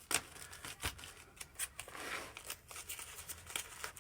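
Plastic-wrapped first aid supplies (suture packs) being handled and packed into a kit: crinkling of the packaging with sharp clicks and knocks, the sharpest just after the start and about a second in.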